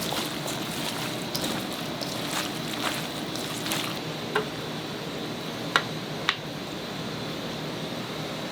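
Kitchen food preparation: a steady rush of water, with scattered light clinks and three sharper knocks of utensils or shells about halfway through.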